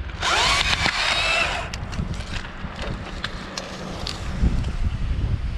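A chainsaw cutting in a brief burst of about a second and a half, its pitch gliding up and down, then scattered sharp cracks and snaps of wood. Wind buffets the microphone throughout.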